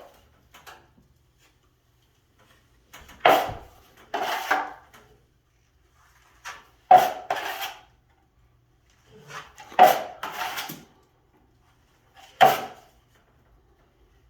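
A metal drywall knife scraping and clacking as it works joint compound. There are about five short strokes, each a sharp hit followed by a brief scrape, a few seconds apart.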